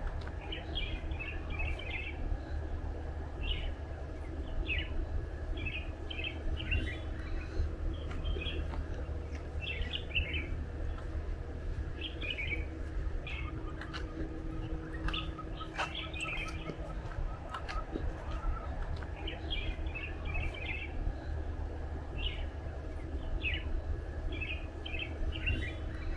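Small birds chirping in short bursts of quick high notes, repeating every second or two, over a steady low rumble.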